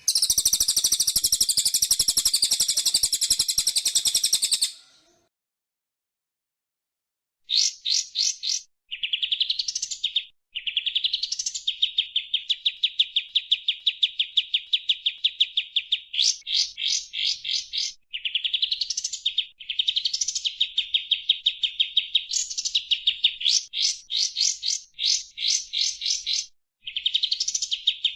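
Recorded songbird song from a sekoci and white-rumped shama training track. It opens with a harsh, rapid chatter of about five seconds, then after a pause gives long runs of fast, evenly repeated trill notes, several phrases starting with a quick rising sweep.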